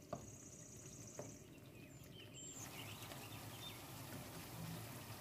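Faint sizzling of beef liver masala in a yogurt gravy, stir-fried over high heat in a pan, with a few soft taps of a wooden spatula near the start. The sizzle grows a little about halfway through.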